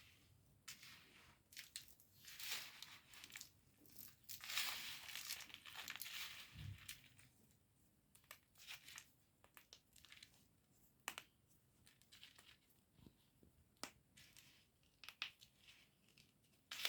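White chalk (khadi) being crushed and crumbled with soft, crunching crackles. The crackles come thick for a few seconds from about two seconds in, then thin out to scattered small cracks.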